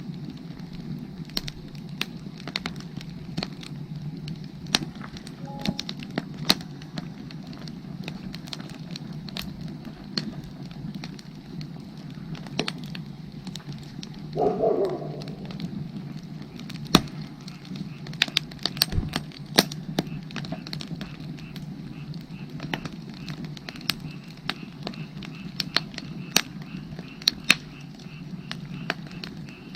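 Firewood burning, crackling with irregular sharp pops over a steady low background. A brief, louder sound comes about halfway through.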